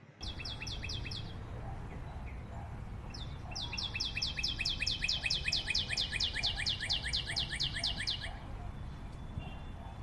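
A small bird singing a rapid trill of high, downward-sweeping notes, about five a second: a short burst at the start and a longer run from about three and a half to eight seconds in.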